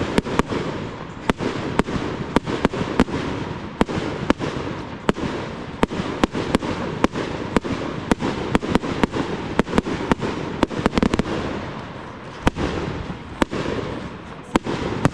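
Aerial fireworks display: shells bursting in quick succession, two or three bangs a second, with a rapid flurry of them about eleven seconds in.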